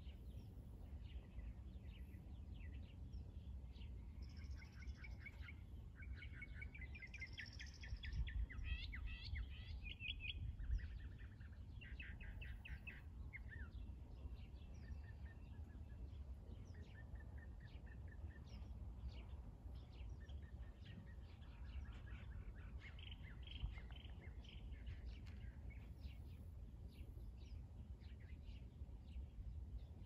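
Birds chirping and trilling in quick runs of short notes, busiest in the first half, over a low steady rumble.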